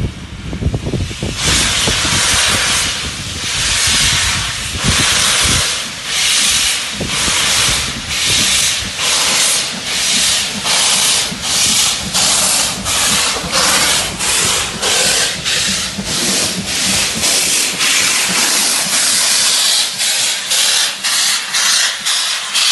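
Steam locomotive pulling away, its exhaust chuffing in loud regular beats that quicken from about one a second to about two a second.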